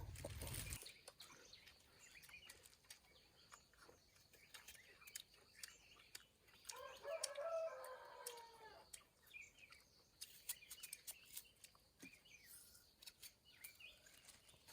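A rooster crowing once, a drawn-out call of about two seconds starting roughly seven seconds in, over faint scattered clicks and small bird chirps.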